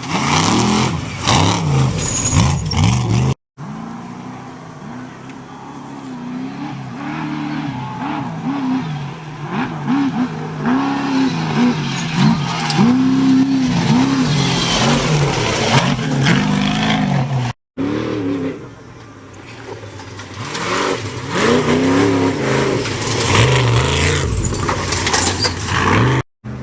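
Off-road racing trucks with engines revving up and down, the pitch rising and falling again and again as they race past. The sound breaks off twice at edit cuts.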